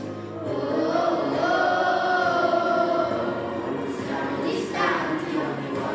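Recorded pop song in which a choir sings long held notes over the backing music, followed by shorter sung phrases near the end.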